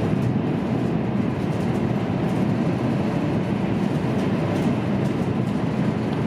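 Cabin noise inside a high-speed passenger train running at speed: a steady low rumble that does not change.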